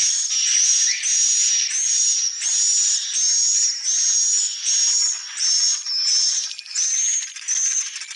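Swiftlet calls: a steady run of short, high, hissy chirps, about one and a half a second, growing sparser near the end.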